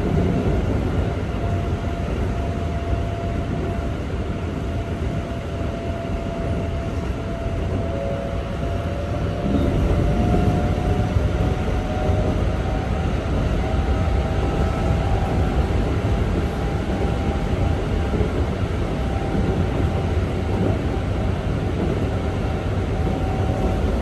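Keikyu 1500 series (1700 subseries) electric train running at speed: a steady rumble of wheels on rail with the whine of its Toyo GTO inverter and traction motors, one tone climbing slowly partway through.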